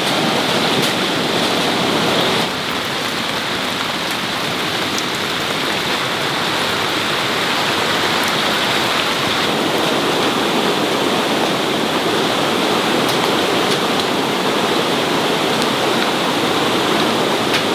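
Loud, steady rush of water, dipping slightly in level about two and a half seconds in.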